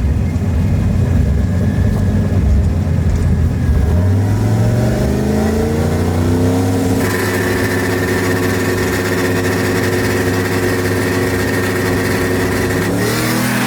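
Truck engine running low, then revving up over about three seconds and held at high revs in a burnout, with a hiss over it; the revs drop near the end.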